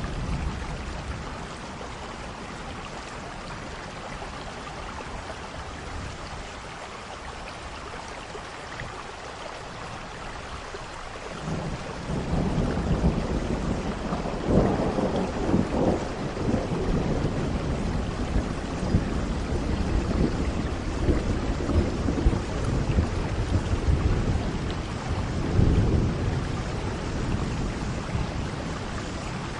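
Steady rain hissing, with thunder rolling in about a third of the way through: a low rumble that surges and fades in waves and swells again near the end.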